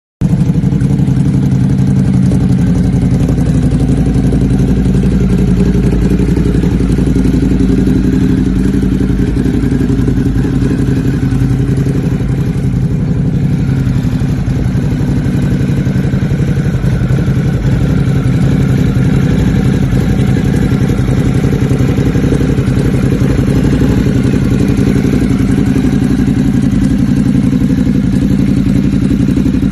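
Ducati motorcycle engine running steadily through a loud exhaust, holding an even pitch without revving up.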